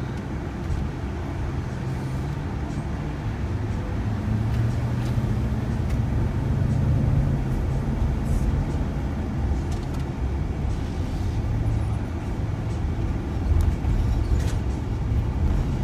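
Steady low drone of a moving passenger van's engine and tyres, heard from inside the cabin.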